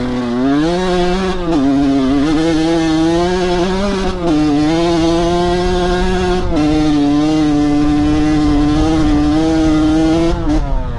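Dirt bike engine pulling hard under throttle. Its pitch climbs, dips briefly about a second and a half in and again around four seconds as gears are shifted, then holds high and steady before falling away as the throttle is rolled off near the end.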